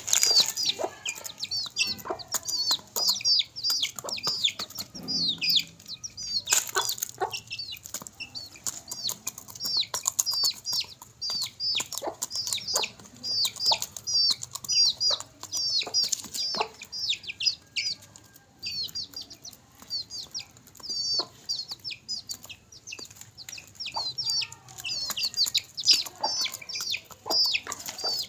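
Chicks peeping without a break, many short high chirps a second, mixed with sharp taps and clicks from birds pecking at food.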